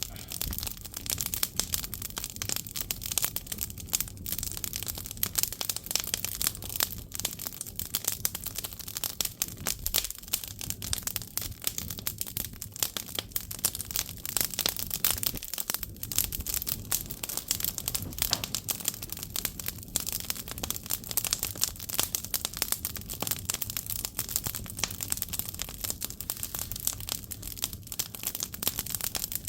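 Firewood crackling as it burns in an agungi, a traditional Korean firebox: a dense, continuous crackle of many small sharp pops.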